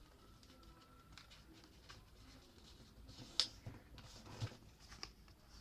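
Sheet of paper being handled and folded, with faint rustling and two sharper crinkles or taps about three and a half and four and a half seconds in.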